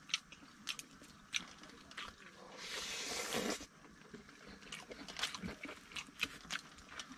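Faint close-up eating sounds: a person chewing, with many small wet smacks and clicks of the mouth, and about two and a half seconds in a hiss lasting about a second, like a breath blown out or a slurp.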